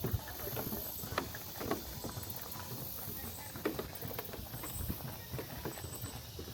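Footsteps of a person walking along a trail, heard as irregular light knocks and scuffs over a low rumble.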